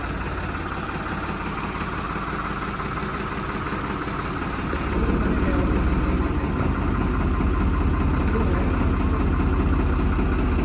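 An engine idling steadily with a low, even rumble, growing louder about five seconds in.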